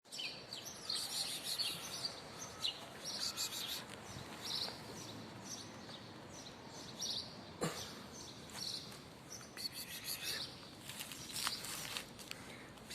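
Small birds chirping, many short high calls one after another over a faint outdoor hiss, with one sharp click a little past halfway.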